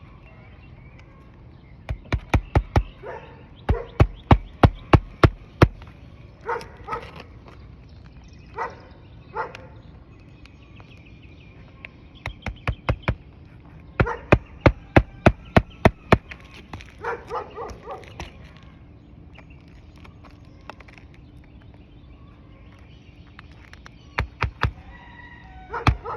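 Hammer driving roofing nails through a replaced asphalt shingle. It comes in several bursts of quick sharp blows, several a second, with short pauses between the nails.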